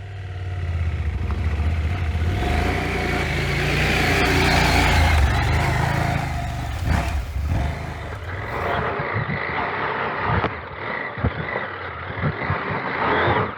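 KTM adventure motorcycle's engine revving hard under load as it attempts a steep, loose climb, struggling for grip. The engine builds for about five seconds, then eases off, with scattered knocks and clatter after that.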